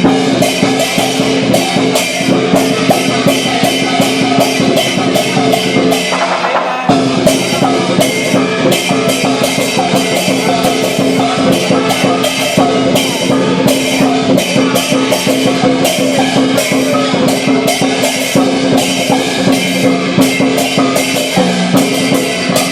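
Lion dance percussion: a large Chinese drum beaten with cymbals clashing in an even, driving rhythm of about three strikes a second over a ringing gong tone. The beat breaks off briefly about six seconds in, then resumes.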